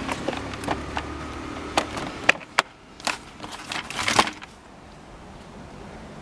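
Sharp clicks and knocks of a Sharp EC-VX2 cyclone vacuum cleaner's plastic parts being handled, over a low hum that stops about two and a half seconds in. The clicking ends a little after four seconds.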